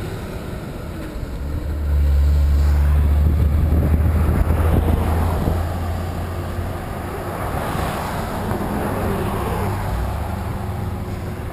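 Wind buffeting the microphone on a moving bicycle, with motor traffic going by. A low rumble grows loud about two seconds in and eases a few seconds later.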